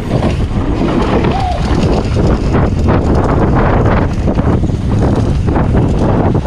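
Wind rushing over the camera microphone during a fast mountain-bike run on a Trek Session downhill bike, with tyres rolling on dirt and the bike knocking and rattling over bumps.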